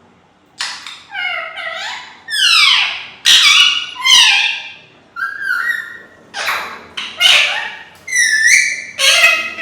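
A parrot calling: after a brief pause, a quick series of short calls, each sliding in pitch, one after another.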